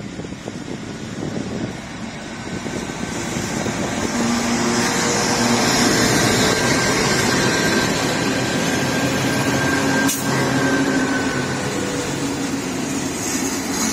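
Pacific National freight train's diesel locomotives approaching and running past close by. The engine noise grows louder over the first five seconds or so and then holds steady, with one sharp knock about ten seconds in.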